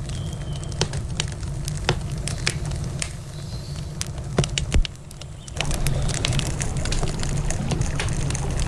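Wood campfire crackling, with many sharp irregular pops and snaps. A steady low rushing runs beneath it and grows louder about two-thirds of the way in.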